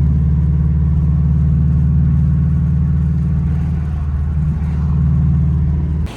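Subaru EJ25 flat-four engine running at a steady speed with a strong, low exhaust note, cutting off suddenly near the end.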